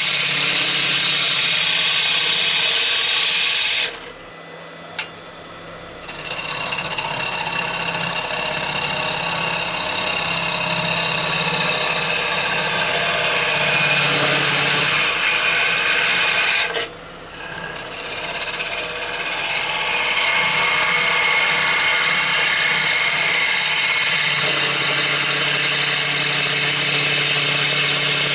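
A bowl gouge cutting rowan wood on a spinning lathe makes a steady scraping hiss over the hum of the lathe motor. The cutting stops for about two seconds around four seconds in, with a single click, and stops again briefly near seventeen seconds.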